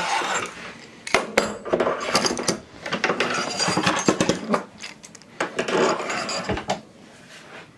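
Parts of a workbench extension being handled and slid into place on aluminium extrusion rails: a busy run of knocks, clinks and scraping that stops about seven seconds in.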